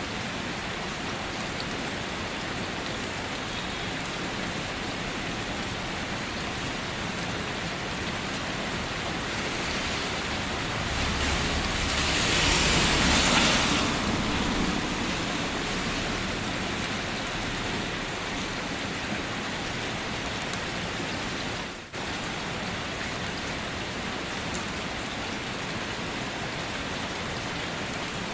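Steady rain falling on a surface. About midway it swells louder for a few seconds before settling back.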